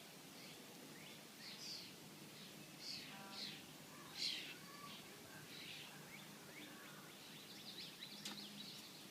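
Small birds chirping: a scatter of short, high calls, the loudest about four seconds in and a quick run of them near the end.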